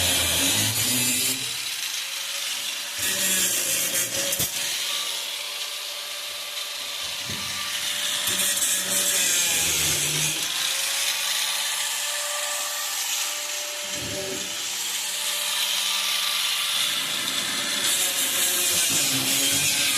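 A power tool cutting into sheet metal for a rust repair. It runs with a steady whine that dips in pitch now and then.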